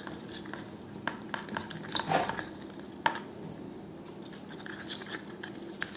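Spoon working freshly activated glue slime in a bowl: scattered small clicks and scrapes of the spoon against the bowl as the slime thickens, the loudest about two seconds in.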